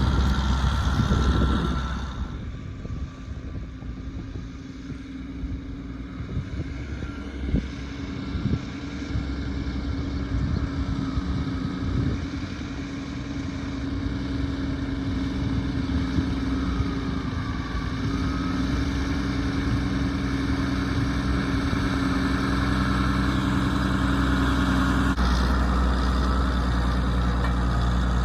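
Leyland 2100 tractor's diesel engine running steadily, growing gradually louder. A loud rushing noise stops about two seconds in.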